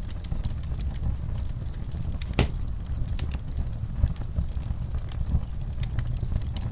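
Wood fire burning in a fireplace: a steady low rumble of flame with frequent small crackles and pops, and one sharper pop about two and a half seconds in.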